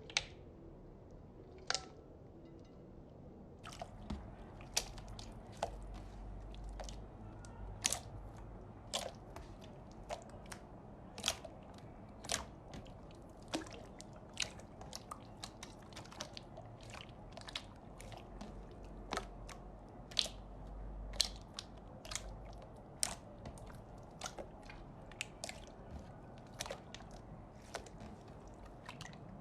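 Slime being played with, giving many sharp little clicks and pops, only a few at first and then several a second from about four seconds in.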